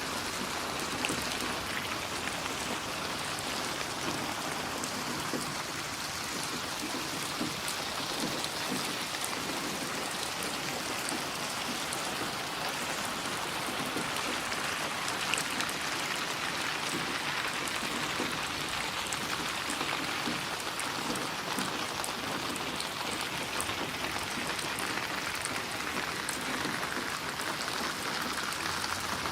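Steady rain falling: an even, unbroken patter of drops.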